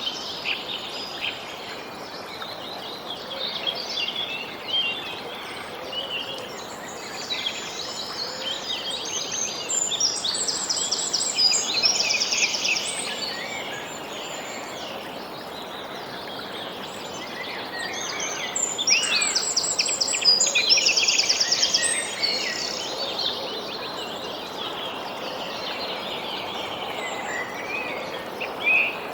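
Several birds singing and calling over a steady background hiss, with two louder bouts of quick repeated notes, about ten and about nineteen seconds in.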